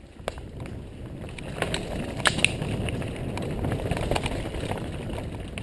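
Downhill mountain bike rolling fast over a rough dirt trail: a rumble from the tyres and frame that builds up over the first second or so, with sharp knocks and rattles from hits near the middle.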